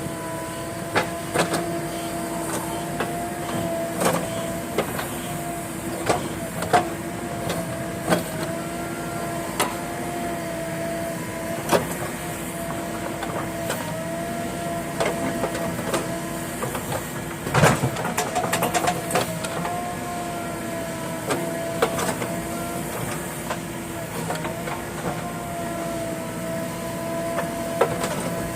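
JCB backhoe loader running at a steady pitch, with a steady whine that dips briefly every few seconds, and scattered metallic clicks and knocks; one louder knock comes about two-thirds of the way through.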